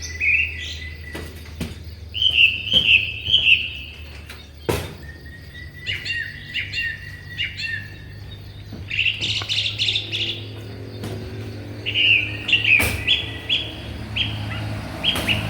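Songbirds chirping and singing in short repeated phrases throughout, with a couple of sharp knocks and a steady low hum underneath.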